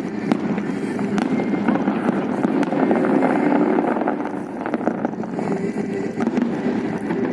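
Steady din of a large outdoor crowd, with a few sharp cracks of fireworks going off, one near the start and one about a second in.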